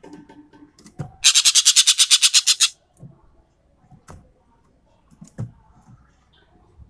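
Sumatran ekek keling bird giving a loud, rapid rattling burst of about ten harsh pulses a second. It starts about a second in and lasts about a second and a half, with a few faint clicks and taps around it.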